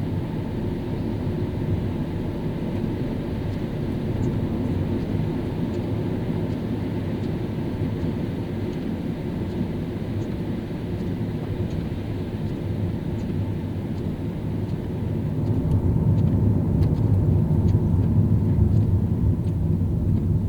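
A car driving on a wet road in the rain: a steady low rumble of engine and tyres on wet pavement, with a few faint light ticks. The rumble swells louder about three-quarters of the way through.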